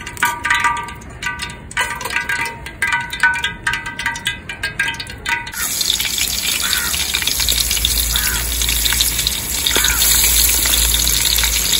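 A metal ladle clinking and scraping in a large metal cooking pot of hot oil, several short ringing clinks a second. About halfway through this gives way to a steady hiss that grows gradually louder.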